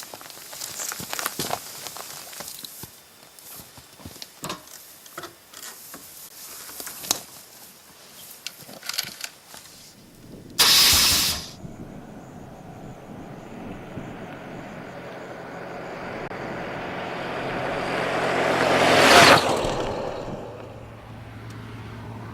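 Scattered clicks and knocks, then a sudden loud rush lasting about a second. A road vehicle then approaches, growing steadily louder until it passes about nineteen seconds in, and fades away.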